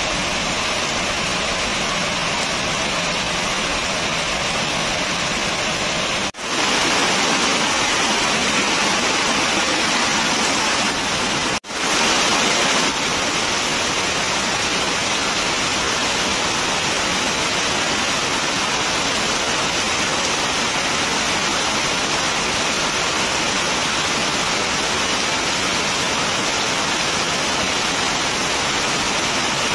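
Heavy rain falling steadily, a dense even hiss. The sound cuts out for an instant twice, about six and twelve seconds in.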